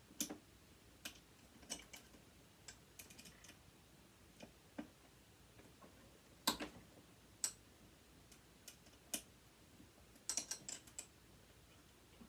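Scattered light clicks and taps of metal tools and small parts while hex screws are worked out of a sewing machine motor, with a quick run of clicks about ten seconds in.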